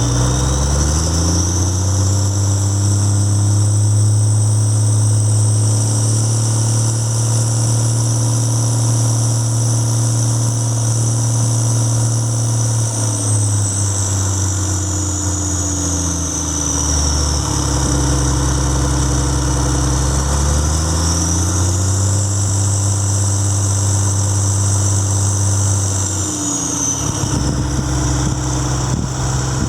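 Two-valve Mack diesel engine on a power unit, revved up from idle and held at higher speed, brought back down to idle, then revved up and held again before dropping back to idle near the end.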